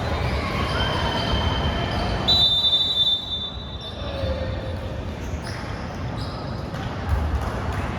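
A basketball game on an indoor court: the ball bouncing in dull thuds, with a high, steady squeal about two seconds in that lasts over a second, from shoes on the court or a referee's whistle. Quieter play follows, with bouncing picking up again near the end.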